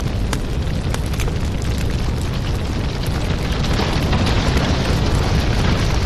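Wood fire burning in a fireplace: a steady low rumble with scattered sharp crackles and pops, swelling a little about four seconds in.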